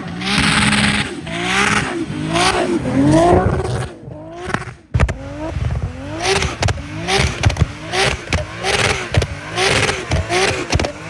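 Tuned car engine revved hard in repeated bursts while drifting, its pitch climbing and dropping about once a second at first. From about six seconds in the revs become shorter, quicker blips, with sharp cracks between them.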